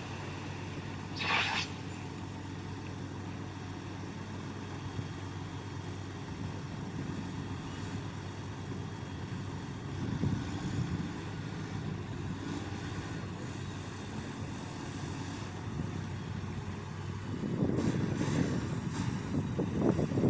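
Dump truck's diesel engine running steadily, growing louder near the end. A brief hiss about a second in.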